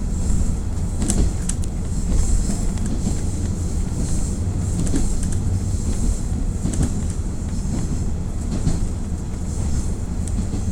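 KiHa 48 diesel railcar running along the track, its diesel engine giving a steady low rumble, with a handful of sharp clicks from the wheels over the rails, heard from inside the car.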